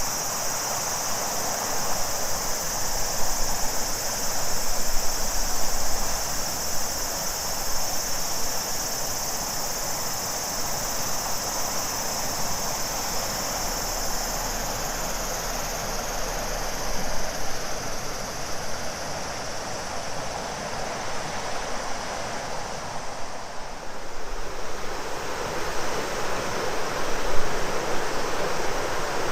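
A river running steadily with a chorus of cicadas singing high over the water. The cicada chorus fades out in the second half, leaving the rushing water.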